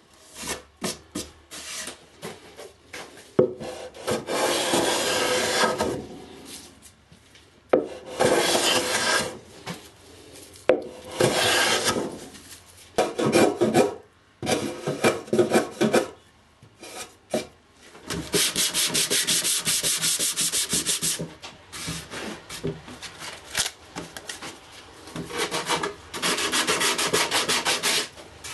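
Wood being rubbed down by hand with an abrasive tool, in runs of rapid back-and-forth strokes with short pauses between them; the longest run lasts about three seconds.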